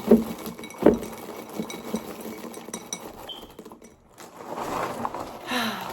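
Two sharp knocks about a second apart, then light clicks and clinks of small objects being handled.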